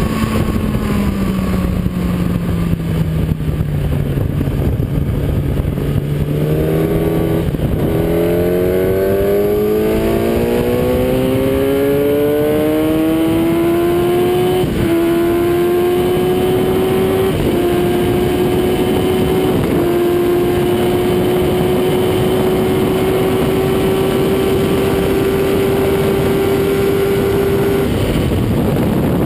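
Kawasaki ZX-10R inline-four engine heard onboard, accelerating hard: the note climbs steeply with several quick upshifts, then holds at high revs before dropping away near the end. Heavy wind noise runs throughout.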